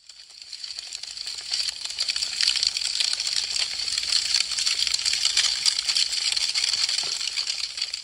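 Wood fire crackling with a dense run of quick, sharp pops and snaps, fading in over the first couple of seconds and fading out again near the end.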